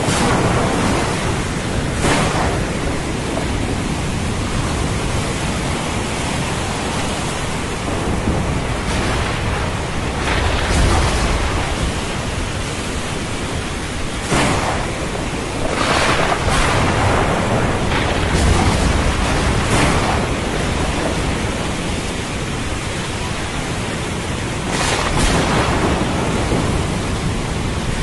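Thunderstorm: steady heavy rain with repeated thunder, sharp cracks several times and low rolling rumbles a third and two-thirds of the way through.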